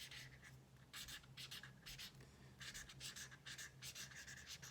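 Faint scratching of a marker tip on paper, drawn in short quick strokes that come in clusters.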